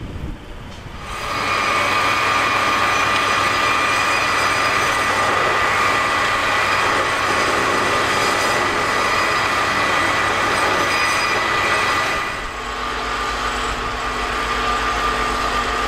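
Freight train rolling past close by, a steady rushing rumble with high, even wheel squeal. It builds about a second in, stays level for about ten seconds, then drops back to a lower rumble.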